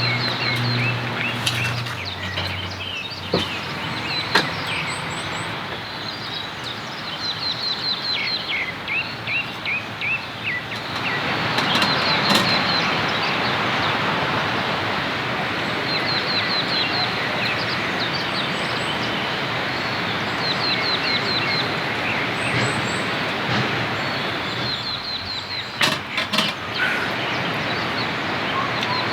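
Rain falling steadily, growing heavier about a third of the way in, while birds call in quick chirping trills throughout. A few sharp knocks come near the end.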